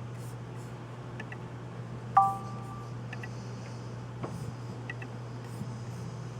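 A single chime rings about two seconds in, two clear tones that fade within about a second, over a few light clicks and a steady low hum.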